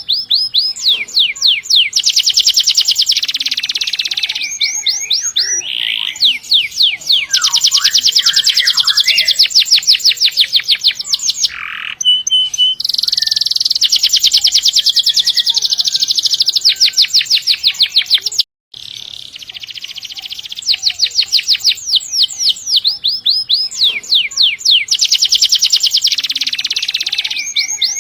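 Domestic canary singing long rolling trills: fast runs of repeated high notes, broken by short pauses, with a brief silent break about two-thirds of the way in.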